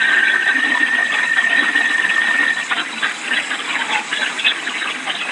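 Hurricane-force wind and rain rushing steadily, with a high steady whistle of wind through a gap that fades out about halfway through.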